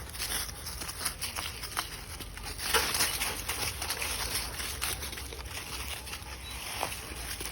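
Irregular rustling and crackling steps on a forest floor, with a louder flurry about three seconds in.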